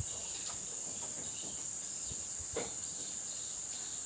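Steady, high-pitched insect drone, like crickets, with a few faint soft ticks.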